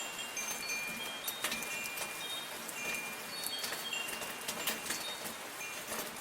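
Steady soft rain falling, with wind chimes ringing now and then in short, scattered high tones and occasional sharp drips.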